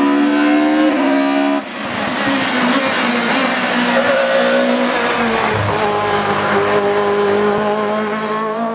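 Racing car engine at hard throttle on a hillclimb, its pitch climbing and dropping with the gear changes. About one and a half seconds in the sound breaks off sharply and picks up again.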